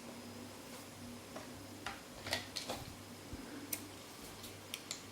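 Light, irregular plastic clicks and taps as small toy figures and playhouse parts are handled, over a faint steady hum.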